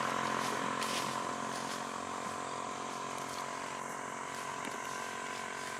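A steady engine hum at an even pitch, slowly fading.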